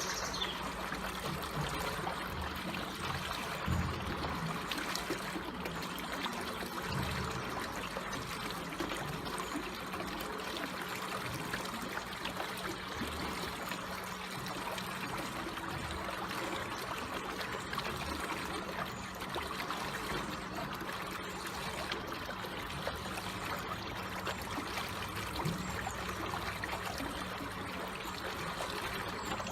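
Water flowing slowly and trickling steadily, an even, unbroken babble with a few faint low knocks.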